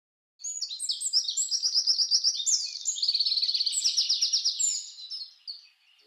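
A songbird singing a fast, varied song of rapid high chirps and trills, fading out near the end.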